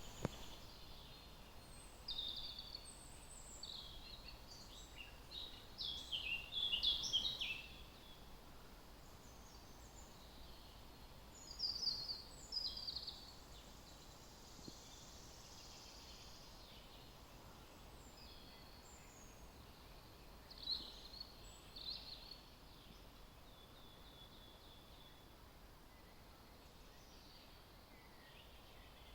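Songbirds singing: bursts of high, quickly changing song phrases, the loudest about six to seven seconds in, with more around twelve and twenty-one seconds, over a faint steady hiss.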